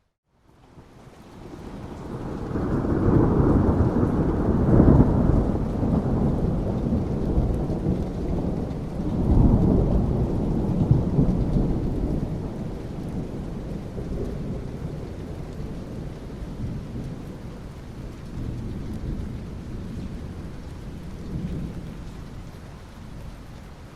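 After a moment's silence at the very start, a long roll of thunder swells in over steady rain, surging twice (about four seconds in and again near ten seconds) before rumbling away slowly, leaving the rain.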